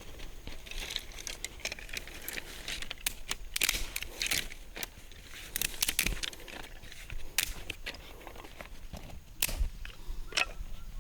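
Dry leaves and twigs crackling and crunching in an irregular series of sharp snaps.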